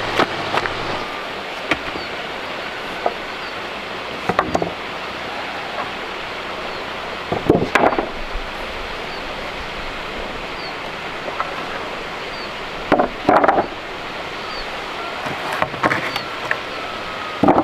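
Steady rushing of running water, broken by irregular knocks and clanks from hands-on work, several of them in quick clusters.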